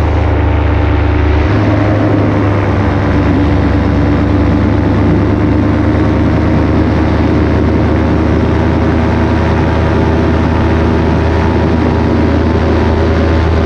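Paramotor engine and propeller running steadily in flight; the engine note shifts slightly in the first couple of seconds, then holds.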